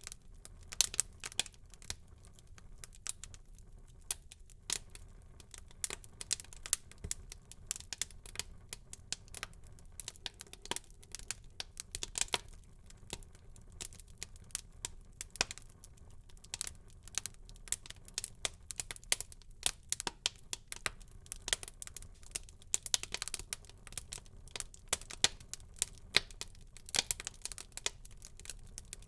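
Wood fire burning in a fireplace, crackling and popping with many sharp, irregular snaps over a faint low rumble of flame.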